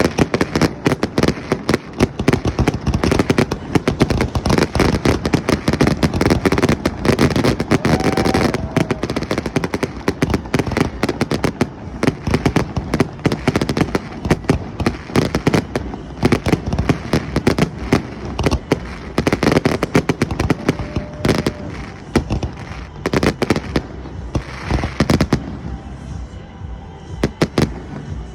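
Fireworks going off in a dense, rapid barrage of overlapping bangs and crackles, thinning out over the last few seconds.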